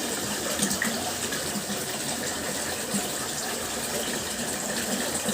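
Water fountain splashing steadily, an even rushing of falling water.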